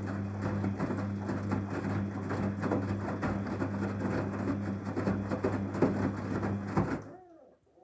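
Daewoo DWD-FT1013 air-bubble washing machine running a wash: a steady low hum with water churning and crackling in the tub, which stops abruptly about seven seconds in.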